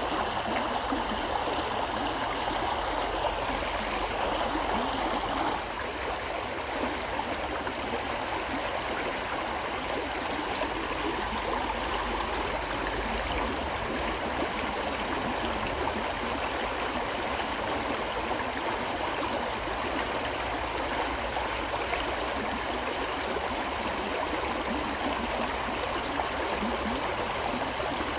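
A river flowing steadily, a continuous rush of water that dips slightly in level about five seconds in.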